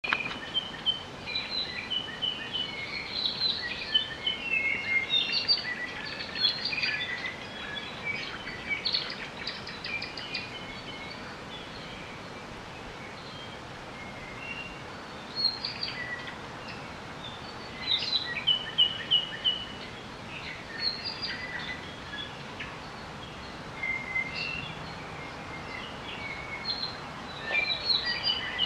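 Several native Hawaiian forest birds singing and calling at once: short chirps, trills and whistled notes, dense for the first ten seconds, sparser for a few seconds after that, then coming back in clusters, over a steady background hiss.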